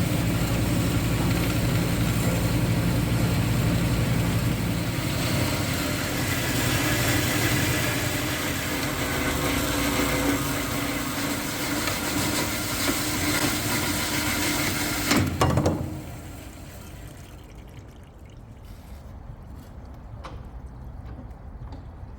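Metal-cutting power saw running through 100 x 100 x 5 mm steel square hollow section, making a loud, steady grinding mechanical noise. The noise stops about fifteen seconds in, leaving a quieter background hum.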